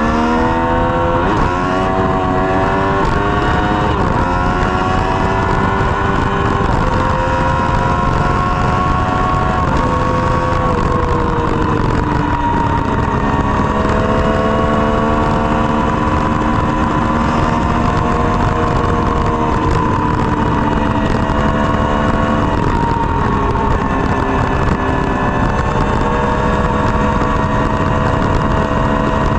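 Triumph Street Triple's three-cylinder engine through a Dominator GP exhaust, running under way. The revs rise and fall sharply a couple of times in the first two seconds, as on quick gear changes, then hold fairly steady with slow rises and falls. A steady rushing noise lies underneath.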